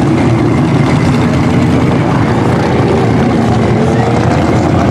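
Loud, steady running of off-road mud-truck engines, with a tone that rises slowly through the middle.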